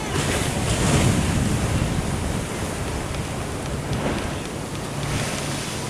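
Waves breaking and washing against a sea wall, a steady roar of surf that swells in the first second or two and then eases off, with wind buffeting the microphone.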